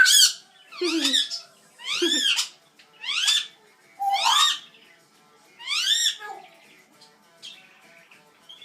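Pet parrot calling: six loud, whistled calls, each rising then falling in pitch, about a second apart, fading out after about six seconds.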